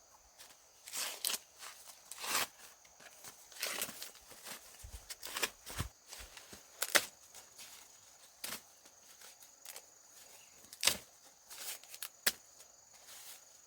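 Dry corn plants being handled: irregular rustling of stalks and leaves with sharp snaps and cracks, the loudest about seven and eleven seconds in, over a steady high insect buzz.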